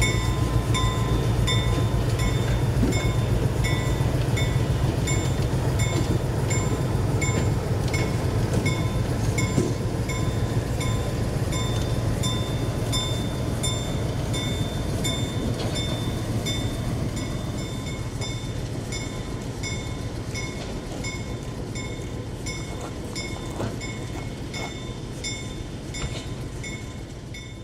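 A freight train rolling past, its low rumble slowly fading away over the second half. Throughout, a high ringing repeats at a steady quick rhythm.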